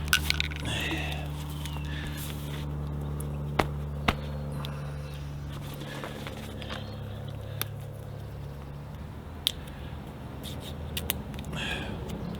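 Scattered sharp metal clicks and knocks from grease guns being handled, over a steady low hum.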